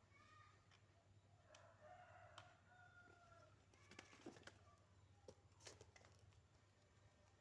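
Faint rooster crowing: one drawn-out call lasting about two seconds, after a short call at the start, followed by a few faint clicks.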